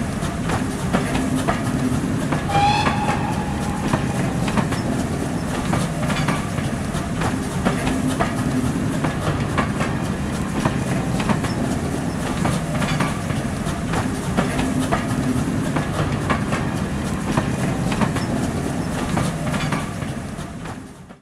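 Train coaches rolling past with a steady rumble and the clickety-clack of wheels over rail joints, with a short high whistle-like tone about two and a half seconds in. The sound fades out near the end.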